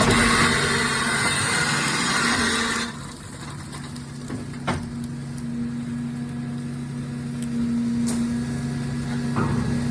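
Grapple truck engine running with a steady hum while the grapple arm works. A loud rushing noise for about the first three seconds cuts off suddenly, and a couple of sharp knocks follow later.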